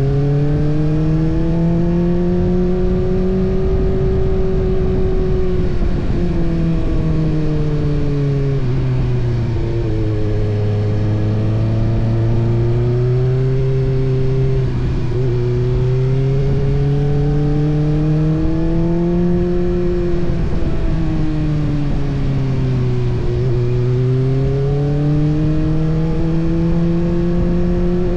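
Kawasaki ZX-6R's inline-four engine heard from on the bike while riding, its pitch rising and falling slowly several times as the throttle opens and closes, over steady rushing wind and road noise.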